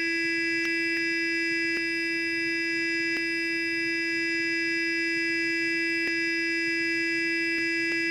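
Electric sonic toothbrush running continuously, a steady even buzz with many overtones, with a few faint ticks scattered through it.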